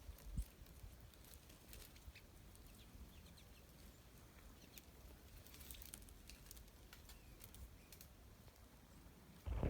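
Faint outdoor quiet with small songbirds chirping softly at intervals, a low rumble underneath, and scattered light ticks. A single low thump comes near the end.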